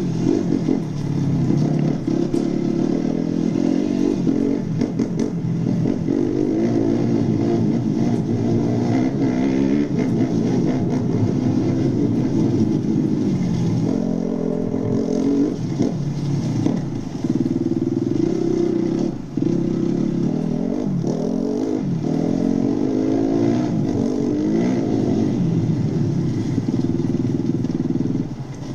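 Dirt bike engine revving hard, its pitch climbing and dropping again and again as the rider accelerates and shifts. The engine sound falls away near the end.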